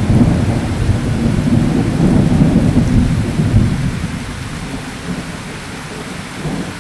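Steady rain hissing through a thunderstorm, with a long low roll of thunder that dies away about four seconds in.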